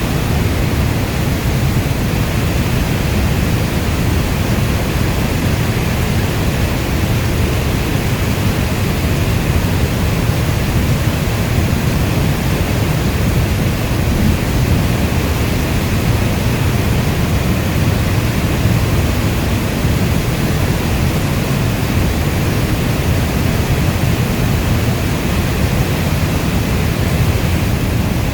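Steady heavy rainfall, a dense, even rush of rain that is deepest in the low end and does not change.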